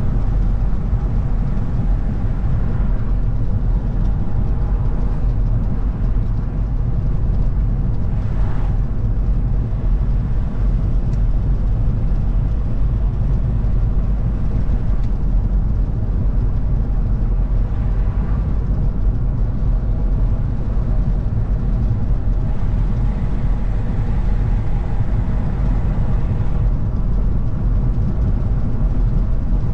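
A car driving along at speed: steady low engine and tyre rumble with road hiss. A brief swell in the hiss comes about eight seconds in.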